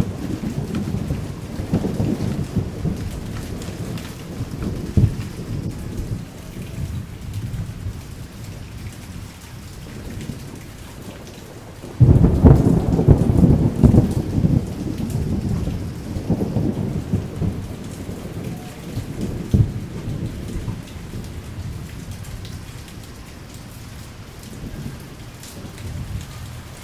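Thunderstorm: rain falling steadily under rolling thunder. A fresh peal of thunder breaks in suddenly about halfway through and rumbles away slowly over the following seconds.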